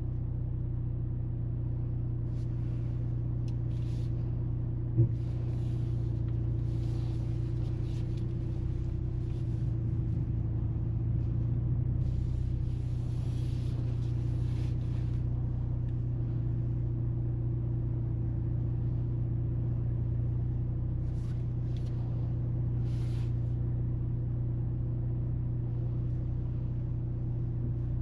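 Mercedes-AMG GLC 43 Coupe's turbocharged four-cylinder and road noise heard from inside the cabin: a steady low drone. A single sharp click about five seconds in.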